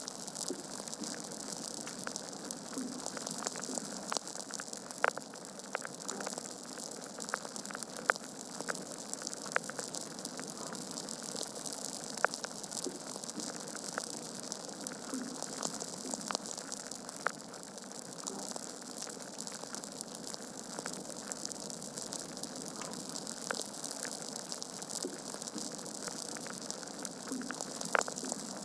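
Wood fire burning in a fireplace: a steady hiss with irregular sharp crackles and pops from the burning logs, a few louder snaps scattered through.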